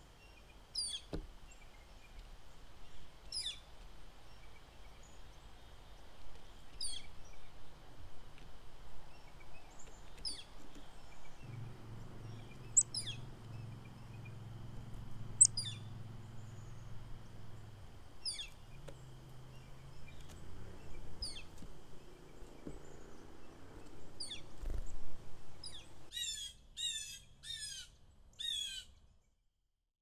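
Small songbirds calling: a short high call sweeping downward, repeated about every two to three seconds, over a faint outdoor background. Near the end comes a quick run of four calls in a row.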